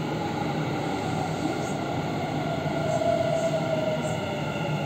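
Dubai Metro train running, a steady rumble with a motor whine that slowly falls in pitch over the first few seconds.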